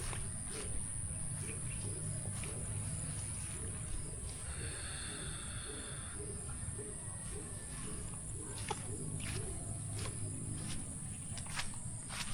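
Outdoor ambience: a steady high-pitched insect drone over a low rumble, with a brief pitched call about halfway through and a few faint clicks.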